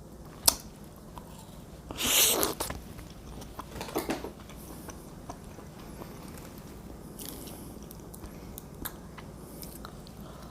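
Close-up eating sounds of a person biting and chewing shrimp and fettuccine: wet chewing with a few sharp clicks and a louder noisy burst about two seconds in.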